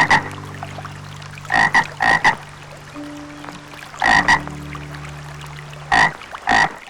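Frog croaking: loud short croaks, mostly in pairs, repeating every couple of seconds over a steady low hum.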